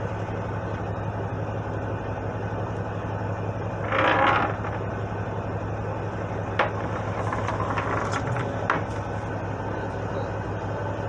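Fishing boat's engine running with a steady low hum. About four seconds in there is a brief louder rush, and a few sharp clicks follow later.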